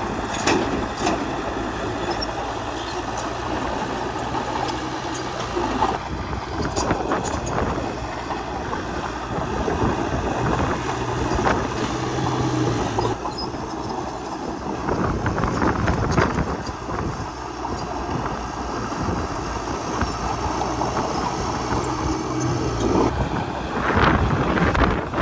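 Crawler bulldozer working: its diesel engine runs steadily under load, the engine note shifting now and then, with scattered metallic clanks and knocks from the tracks and blade as it pushes soil.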